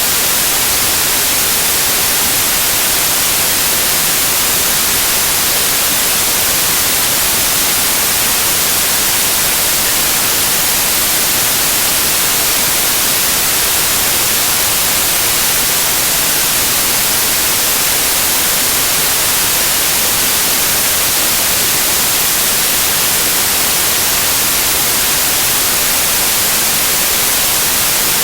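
Loud, steady white noise: an even hiss with no change in level or pitch, brightest in the highs.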